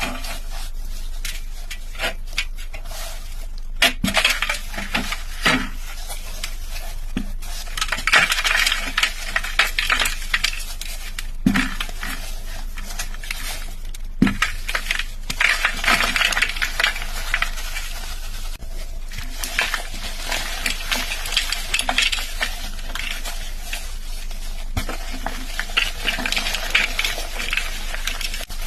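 A heart-shaped block of soft chalk being crushed and crumbled, crunching and crackling in repeated spells with sharp snaps as pieces break off.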